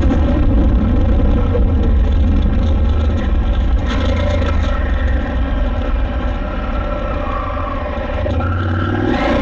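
KTM 890 Adventure R's parallel-twin engine running steadily under load while riding a sandy trail, with a heavy low rumble and a few brief clatters about four seconds in.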